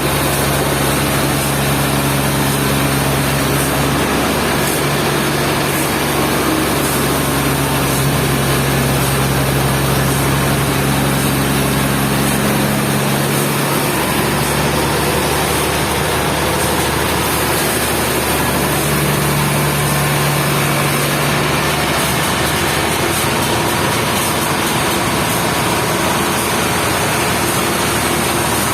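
Sawmill machinery running steadily: a low motor hum that shifts in pitch a few times, over a steady hiss.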